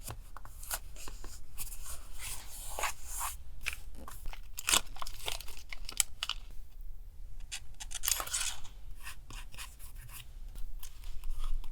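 Paper being handled and torn: irregular rustling, crackling and tearing sounds in quick succession.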